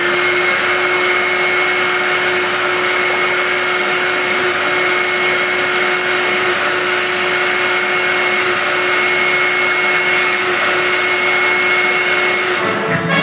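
Vacuum cleaner running with a steady whine over a whoosh of air. It starts with a brief rise in pitch as the motor spins up and cuts off sharply near the end.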